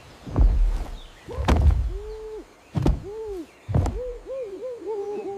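Chimpanzee hooting: two drawn-out hoots, then a quickening run of short rising-and-falling hoots, mixed with several heavy low thumps.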